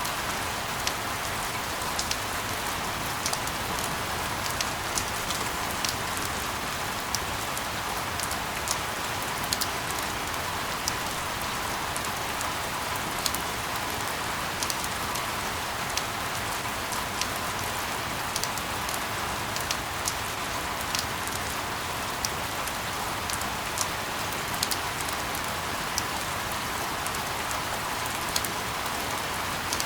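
Steady rain falling, an even hiss with many sharp drop ticks scattered through it, unchanging throughout.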